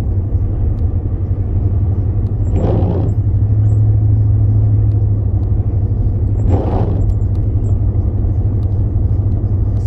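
Steady low road and engine rumble inside a moving car's cabin, with two brief swishes about four seconds apart.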